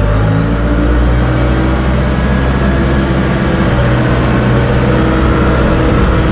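Big diesel engine running steadily under load in low gear, loud and close.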